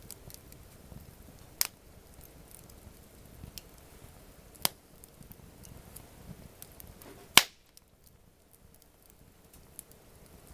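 Wood campfire burning with a steady, faint crackle and three sharp pops from the burning wood, the last and loudest about three-quarters of the way through.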